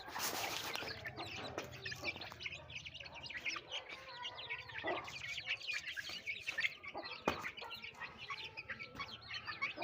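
Domestic chicks peeping and hens clucking, a steady stream of short high chirps. There is a rustle at the start and one sharp knock about seven seconds in.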